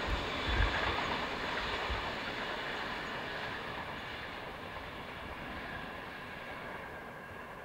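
Yellow double-deck electric passenger train running along the line and moving away, its rolling rumble and hiss fading steadily. A couple of brief low thumps come near the start.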